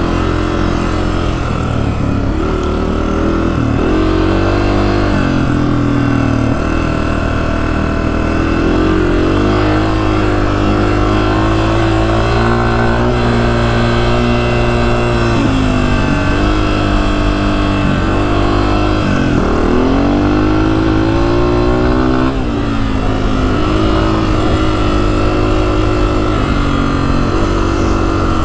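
Honda CRF250F dirt bike's single-cylinder four-stroke engine running under way, its pitch repeatedly dropping and climbing again as the throttle is rolled off and on and gears change. Heard from a helmet-mounted camera.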